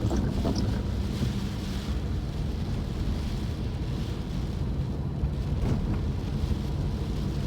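Steady low rumble of a car driving, heard from inside the cabin, mixed with wind noise from a blustery rainstorm.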